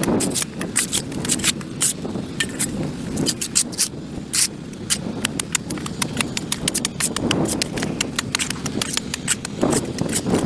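Hand tool scraping packed dirt and grass off a concrete sidewalk: quick, irregular scrapes and sharp knocks, several a second.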